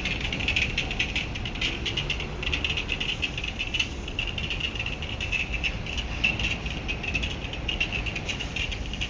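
Insects trilling in a fast, steady pulsing chorus, with a low background rumble underneath.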